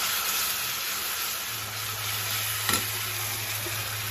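Onion-tomato masala sizzling in a frying pan while a steel spatula stirs it. There is one sharp clink of the spatula against the pan about two-thirds of the way through.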